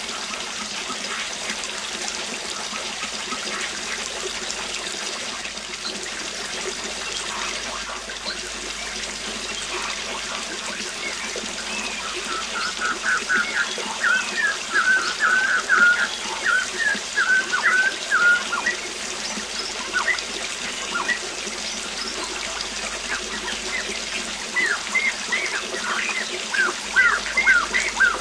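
Steady rush of a waterfall, with a songbird singing in quick runs of short chirps from about halfway through, loudest in two spells.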